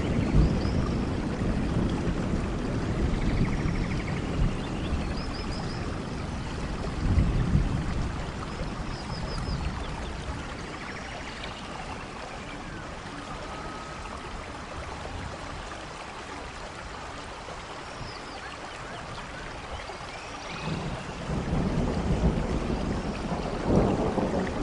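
Steady rain falling in a rainforest, with low thunder rumbling at the start, briefly about seven seconds in, and building again near the end. Birds chirp now and then over the rain.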